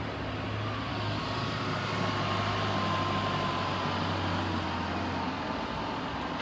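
Bus engine running as the bus moves off, a low hum that swells in the middle and fades away about five seconds in, over steady street noise.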